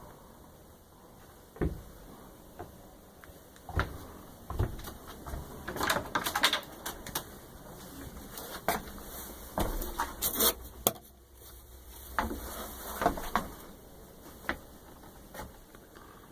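Irregular knocks, clicks and rustles of someone moving about and handling things in a small space, busiest about six seconds in and again around ten seconds.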